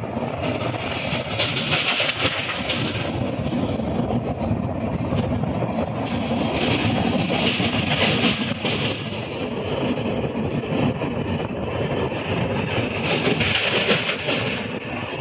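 Passenger train running across a steel truss bridge, heard from inside the carriage: a steady rumble and rattle of the wheels on the rails, with a higher hiss that swells and fades every few seconds.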